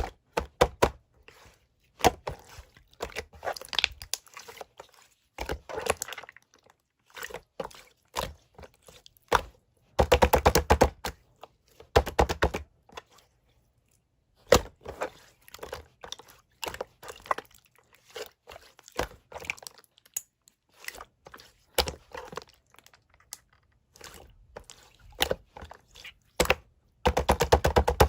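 Typing on a keyboard: rapid bursts of key clicks and taps with short pauses between them.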